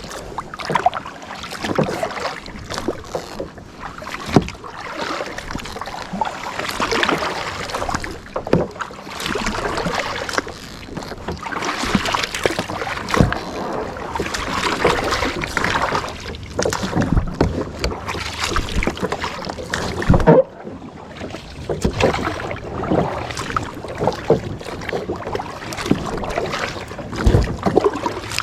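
Kayak paddling: the paddle blades dipping and splashing in the water in a steady run of strokes, with scattered clicks and a few sharper knocks.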